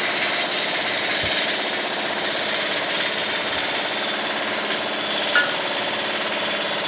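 A steady, rapid mechanical rattle from a power tool or shop machine starts abruptly and runs on without a break. A short sharp tick comes about five seconds in.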